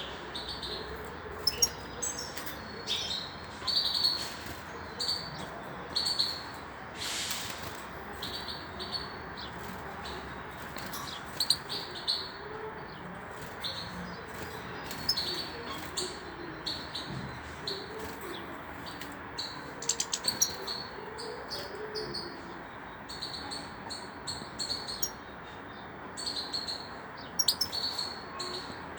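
Female European goldfinch chirping in short high bursts every second or so, over a steady background hiss.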